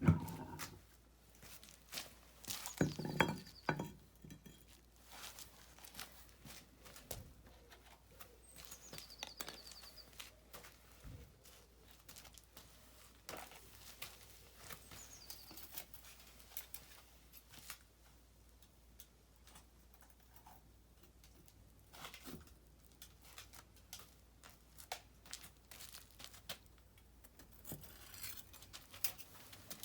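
Scattered light clicks and small clinks of hard objects being handled, with a louder cluster about three seconds in and a few faint high chirps.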